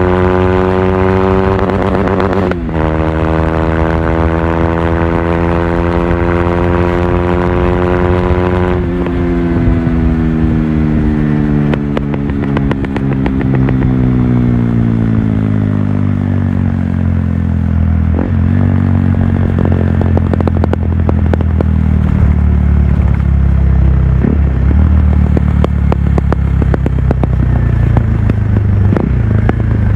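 Stage II tuned KTM RC 390's single-cylinder engine under way: held at steady revs with a brief break about two and a half seconds in, then the revs fall away over about ten seconds as the bike slows, with scattered sharp pops, settling into a low steady run for the last stretch.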